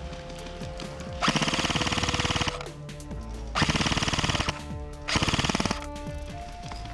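Airsoft electric gun firing on full auto in three bursts, a long one and then two shorter ones, each a fast rattle of shots.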